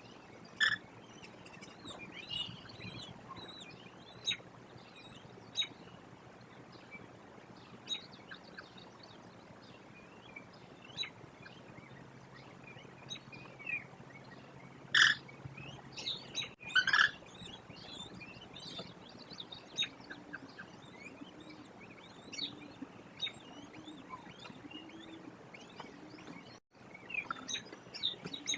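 Wild birds chirping and calling over a quiet rural background, with short, scattered calls and a few louder ones. A faint low note repeats evenly near the end.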